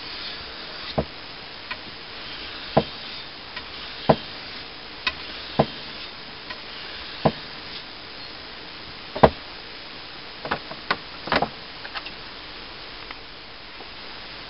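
Scattered light knocks and clicks, irregularly spaced about one a second, over a faint steady hiss, with a small cluster of them near the middle.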